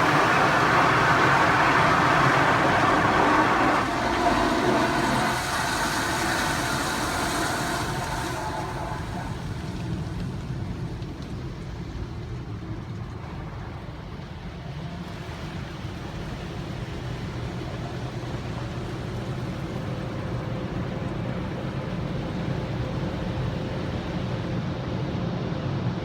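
Automatic car wash machine running, with loud, hissing spray and brush noise for the first eight seconds or so, then a quieter, steady mechanical hum.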